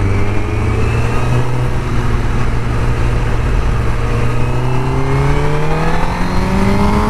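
Honda CBR1000RR Fireblade's inline-four engine running through its stock exhaust, engine speed climbing slowly and steadily.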